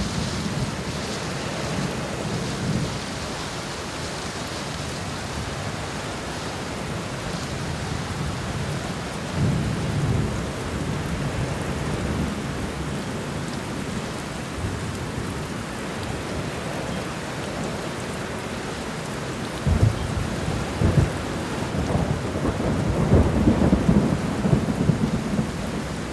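A thunderstorm: steady rain with rolling thunder. Low rumbles come at the start and again about ten seconds in. A couple of sharp cracks follow near twenty seconds, then a longer, louder rumble near the end.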